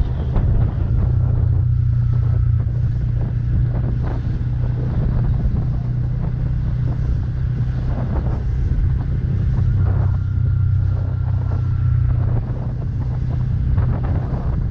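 Wind rushing over the microphone while riding, over the steady hum of a Bajaj Pulsar N160's single-cylinder engine at cruising speed.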